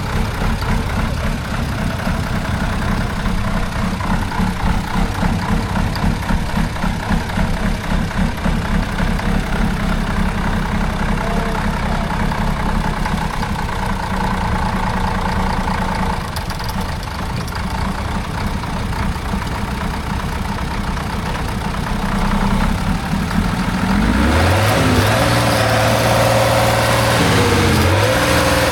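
Heavy off-road competition truck's diesel engine running at low revs with a steady pulsing drone; about 24 seconds in it gets louder and the revs rise and fall before holding steady near the end.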